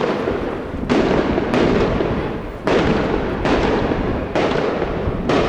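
Fireworks display: aerial shells bursting in a rapid series of about five loud bangs, each trailing off before the next.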